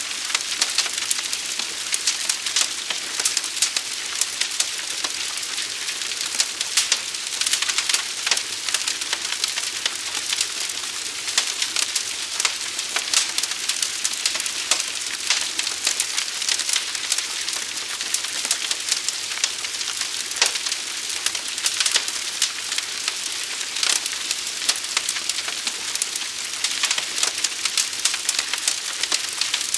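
Large fire burning: dense, irregular crackling and snapping over a steady hiss, with no let-up.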